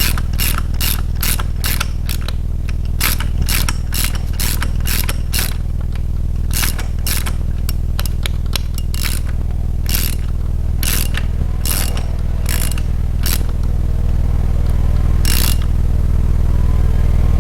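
Socket ratchet clicking in quick runs as the rocker-arm nuts of a Chevy 350 small-block are tightened down to take up pushrod slack. The clicks come thick for the first few seconds, then in sparser runs, over a steady low hum.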